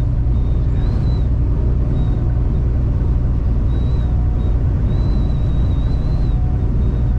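Inside a moving semi-truck's cab: a steady low rumble of engine and road, with a thin, high whistle of strong wind that comes and goes several times.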